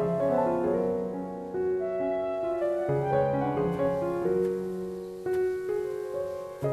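Soft, slow background piano music: sustained notes over a low bass note.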